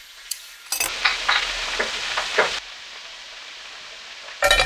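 Sausages sizzling in a frying pan on a camping stove, loud at first and then, after an abrupt drop, a quieter steady sizzle. A sharp clatter of pan or utensil near the end.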